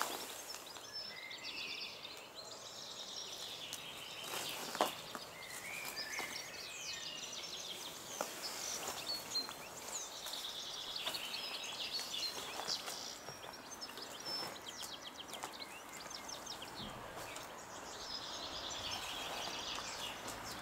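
Songbirds singing outdoors: repeated chirps and trills over a faint, even background hiss, with a single sharp click about five seconds in.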